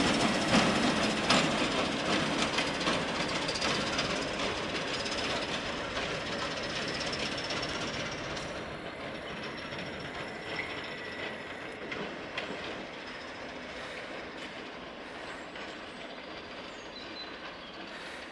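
A train running on the rails and moving away, its wheels clicking over the rail joints with a thin squeal. The sound fades steadily throughout.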